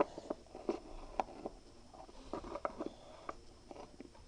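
Faint, irregular light taps and clicks, a few a second, as of small objects being handled.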